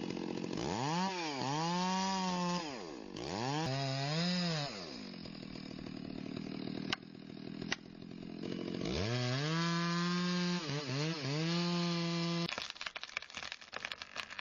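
A chainsaw engine revving up to a high, steady full-throttle whine three times, dropping back between revs, with two sharp clicks in the lull. Near the end the engine stops and a run of quick crackling snaps follows.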